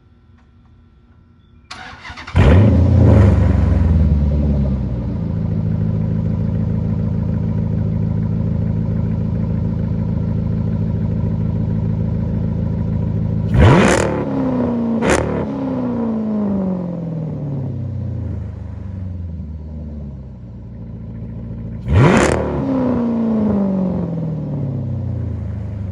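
Dodge Charger with a straight-pipe exhaust starting up about two seconds in with a loud flare, then idling. It is revved three times, quick blips about 14 and 15 seconds in and another near 22 seconds, each falling back to idle. The exhaust leak has just been welded shut.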